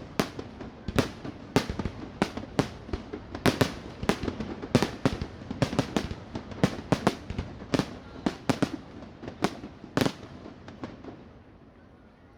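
Fireworks display: shells bursting in a rapid, irregular barrage of sharp bangs, some ringing on briefly. The bangs thin out and stop about ten seconds in.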